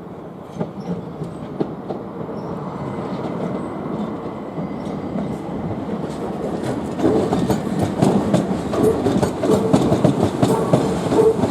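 Southern Class 377 Electrostar electric multiple unit passing, its sound growing steadily louder. From about seven seconds in, the clatter of wheels over rail joints becomes louder and denser.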